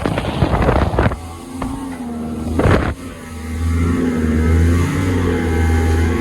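Small fishing boat's petrol engine running steadily at planing speed, about 20 knots, with a few thumps from the hull on the water in the first three seconds, the loudest near three seconds in.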